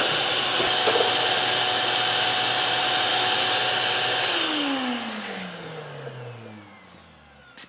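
Vacuum cleaner running steadily through a narrowed hose while it sucks debris out of a gas tank. About four seconds in it is switched off, and its motor whine falls in pitch as it spins down to a stop.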